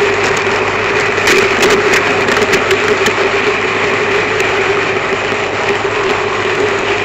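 N gauge model train running on its track, heard from a camera car riding on it: a steady, high motor whine and wheel noise, with scattered clicks from the wheels over the rails in the first few seconds.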